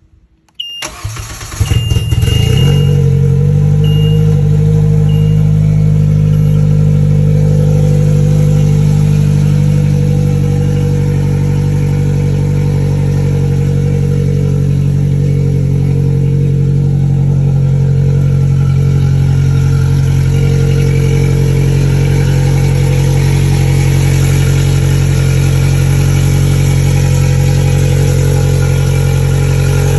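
A 2020+ Polaris Slingshot's 2.0-litre four-cylinder engine, fitted with a race exhaust system, is push-button started: the starter cranks briefly about a second in, the engine catches and settles into a loud, steady idle.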